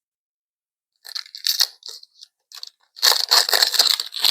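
Foil booster-pack wrapper crinkling as it is handled and torn open, in two crackly bursts: a shorter one about a second in and a louder, longer one from about three seconds.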